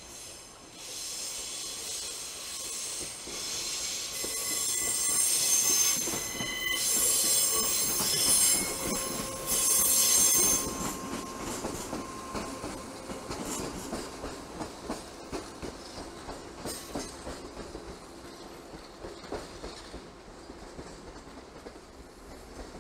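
A train passing through the rail yard, its wheels squealing in thin high tones, loudest from about four to eleven seconds in. After that come regular wheel clicks over rail joints, fading as it moves away.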